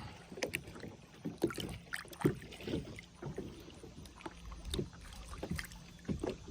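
Light irregular splashes and small knocks of water against a small boat as a bass is let go, over a faint steady low hum.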